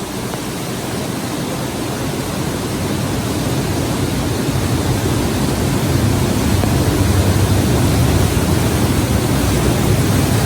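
Large volume of water rushing through an artificial canyon in a staged flash flood, a dense steady roar with a deep low rumble that grows louder over the first several seconds.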